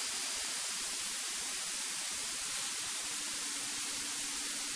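Steady electronic hiss of the aircraft's intercom and radio audio feed with no one transmitting. A faint low hum comes in about three seconds in.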